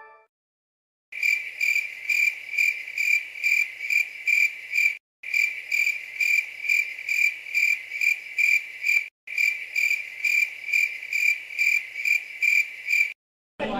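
Crickets chirping in an even rhythm of about two to three chirps a second: the stock cricket sound effect used in memes for an awkward silence. It starts about a second in and breaks off for an instant twice, as a short clip played over again.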